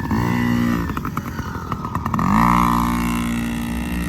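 Kids' 50cc dirt bikes, a two-stroke Yamaha PW50 and a four-stroke Honda CRF50F, running near the microphone, with the engine revs rising twice, at the start and about two seconds in, then holding steady.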